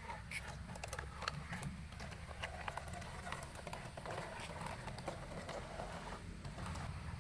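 Faint, scattered light clicks and taps, irregular and close together, over a low steady hum.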